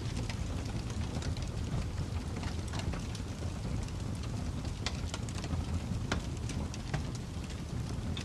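Fire crackling: a steady low rumble of flames with irregular sharp pops and snaps, a few louder ones around the middle.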